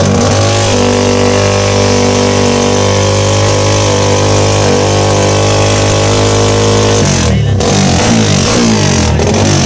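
Drag-racing motorcycle's engine held at steady high revs on the start line. About seven seconds in, the revs start rising and falling in quick blips.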